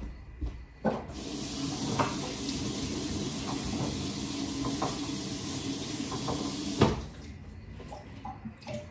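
Kitchen tap running steadily for about six seconds, switched on about a second in and off near the end, with a few light knocks of things being handled in the sink.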